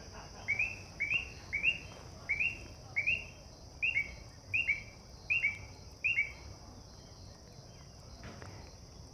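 Frogs calling in an evening chorus: a steady high trill with a run of short two-note calls rising in pitch, about two a second, which stops about six seconds in.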